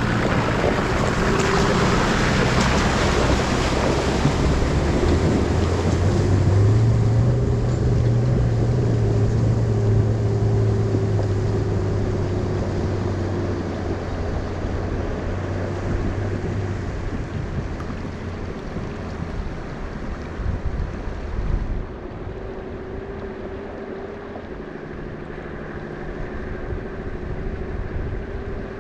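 Nissan GQ Patrol four-wheel drive's engine running under load as it drives through a river, with water rushing and splashing against the vehicle. The splashing is loudest in the first few seconds, the engine note is steady and strong through the middle, and the sound drops off about three-quarters of the way through.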